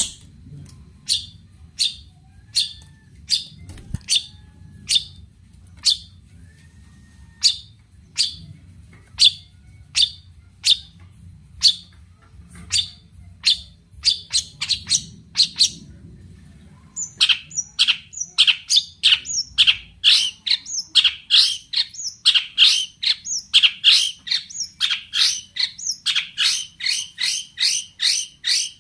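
Long-tailed shrike (cendet) calling: sharp, high, falling notes repeated at intervals of about half a second to a second. Then, a little over halfway through, they break into a faster, louder run of about three notes a second.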